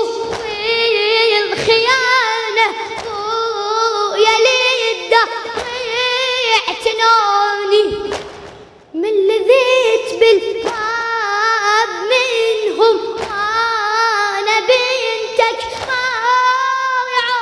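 A high singing voice in a Shia mourning chant, holding long wavering, ornamented notes without clear words, in two long phrases broken by a short pause about eight seconds in.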